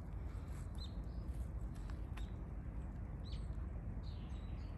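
Faint short bird chirps, a handful scattered over a few seconds, over a steady low background rumble.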